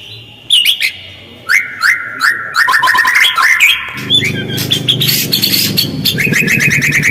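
White-rumped shama (murai batu) song used as a lure recording: loud, sharply sweeping call notes separated by short pauses, quickening into a fast run of notes, then a harsh rasping chatter from about four seconds in and a rapid even trill near the end.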